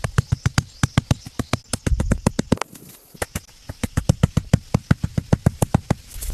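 Rapid series of sharp knocks or strikes, about five a second, with a brief pause a little before the middle.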